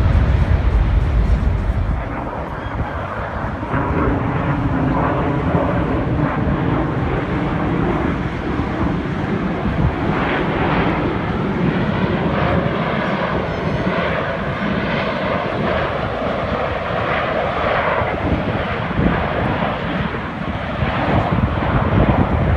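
Jet aircraft flying over, a loud steady engine sound with a heavy low rumble in the first two seconds.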